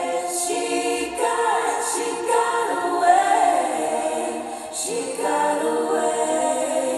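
Live singing of a slow song: a woman's voice holding long, sliding notes within a choir-like blend of voices, with little accompaniment beneath.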